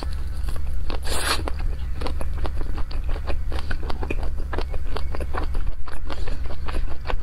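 Close-miked eating of a skewered, chili-sauced food: a bite with a loud crunchy tear about a second in, then steady chewing full of small wet clicks and crackles.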